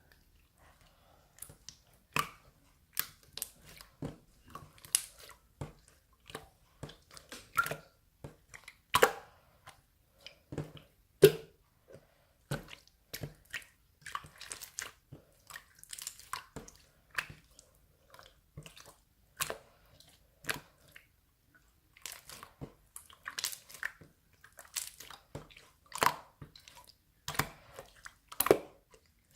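Slime being squeezed and poked by hand: irregular short wet clicks and squelches, a few a second.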